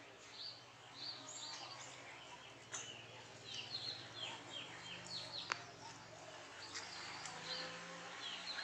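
Several small birds chirping, with short repeated notes that sweep downward. There is a single sharp click about five and a half seconds in.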